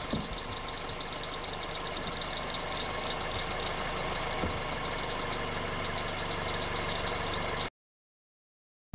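Car engine idling steadily, cutting off abruptly to silence near the end.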